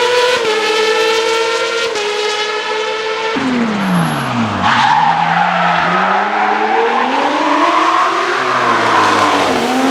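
Hill-climb race car engines at high revs: one pulls hard with two brief gear-change dips, then about three seconds in the revs drop steeply as a car brakes and climb again. Tyres squeal through the corner that follows.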